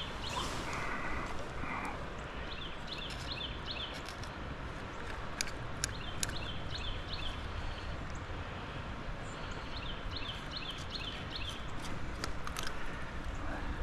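A songbird singing short phrases of quick repeated high chirps, a phrase every few seconds. Under it there is a steady low outdoor rumble, with scattered faint clicks.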